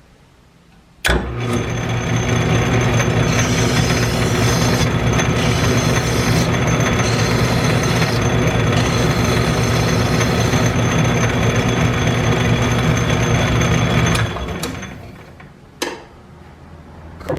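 Metal lathe switched on and running steadily with a loud mechanical hum for about thirteen seconds, then winding down. A couple of sharp clicks follow.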